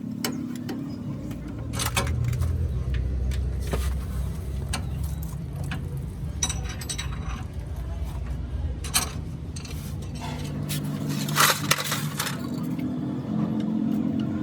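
Metal parts clinking and knocking against each other over a steady low hum, with a louder cluster of sharp clinks near the end.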